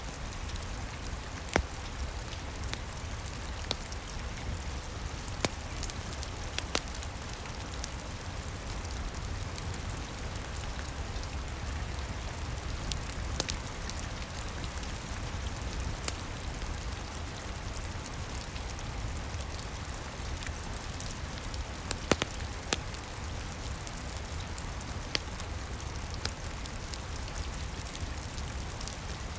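Steady rain falling, with a fireplace crackling over it in scattered sharp pops every few seconds.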